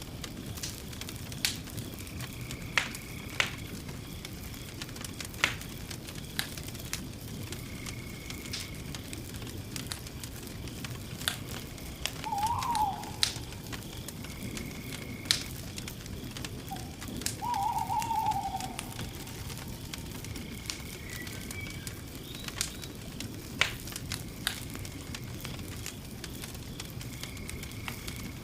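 Campfire crackling, with irregular sharp pops over a steady low rumble. Two short bird calls come about halfway through, and a faint high chirp repeats every few seconds.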